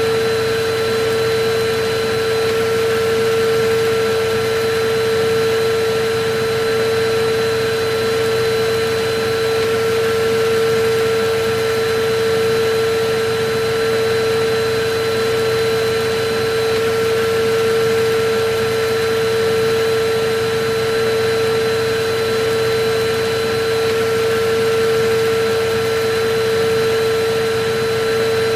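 Electric vacuum cleaner running steadily: a continuous motor whine over a broad rush of air, with no change in speed.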